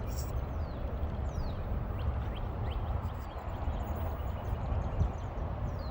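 Outdoor ambience: a steady low rumble with a few short, high, falling bird chirps scattered through it.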